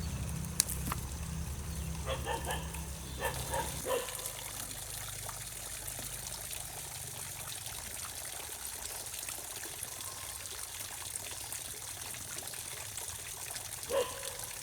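Water trickling steadily. A low pulsing rumble stops about four seconds in, and a few short knocks come in the first four seconds and again near the end.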